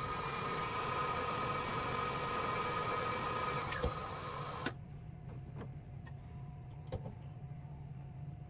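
Steady whine of an electric motor running, with several fixed tones; it cuts off abruptly about halfway through. A quieter background with a few light clicks follows.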